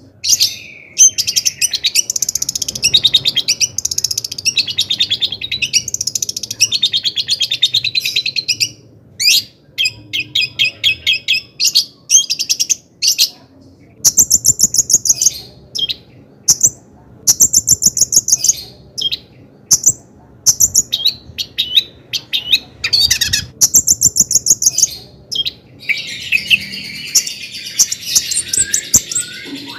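Long-tailed shrike (cendet) in full, excited song: fast runs of repeated high chirps and trills broken by short pauses, turning to harsh, scratchy chatter near the end.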